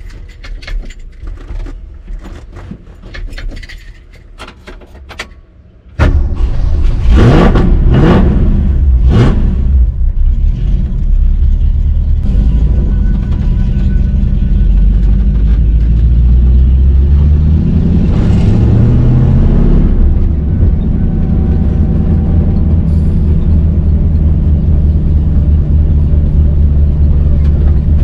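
Keys clicking and rattling, then about six seconds in the carbureted 302 V8 of a 1965 Ford Mustang fastback with Shelby GT350-style side-exit exhaust comes in loud, heard from inside the cabin. It is revved in three quick blips and settles into a steady idle. Near the middle a longer rev climbs for a few seconds and drops back, and the engine runs on steadily.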